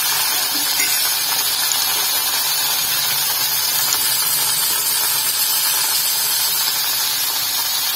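Raw banana slices frying in hot oil in a kadai: a steady, even sizzle.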